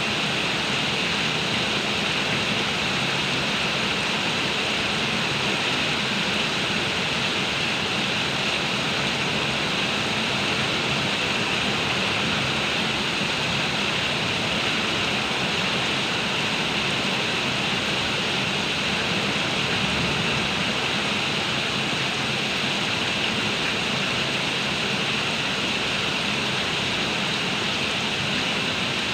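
Heavy rain pouring down in a steady, dense hiss with no letup.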